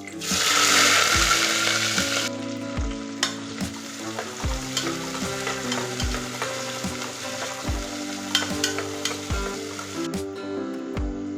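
Food sizzling as it fries in hot oil, with a spoon stirring the pan. A loud burst of sizzling at the start eases after about two seconds into a steadier sizzle.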